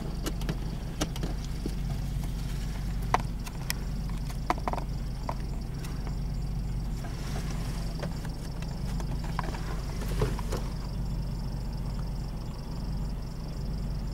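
Car engine idling, heard from inside the car as a steady low hum, with scattered light clicks and knocks.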